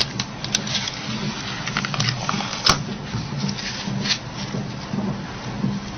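Scattered small clicks and light scraping as an SRT6 plastic opening tool pries a Nokia 8800's key mat free of its guides, with a low steady hum underneath.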